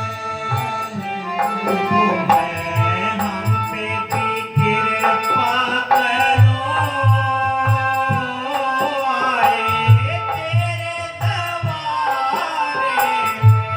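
A devotional shabad sung to live accompaniment, with held steady tones under the voice and a hand drum keeping a regular beat. Faint, evenly spaced jingling ticks mark time above it.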